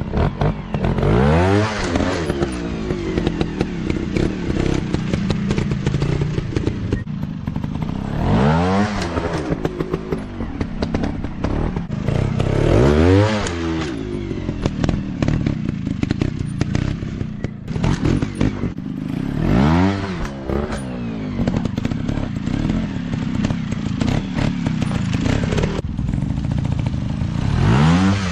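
Dirt bike engines running. The revs rise and fall again about five times, several seconds apart, over a steady background of other bikes.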